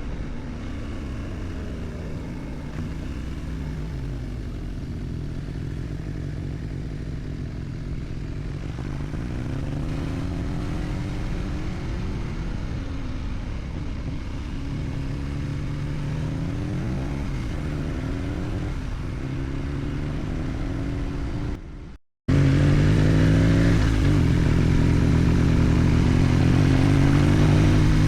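Motorcycle engine running on the move, its pitch rising and falling with throttle and gear changes. It cuts out briefly a little over 20 seconds in, then comes back louder.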